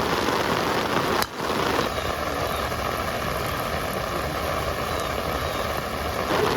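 Steady heavy rain hiss, briefly cut off about a second in. From about two seconds in, a steady whine runs under the rain until shortly before the end.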